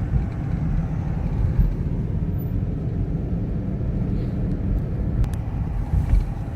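Steady low rumble of road and engine noise inside a moving car, with a couple of faint clicks about five seconds in.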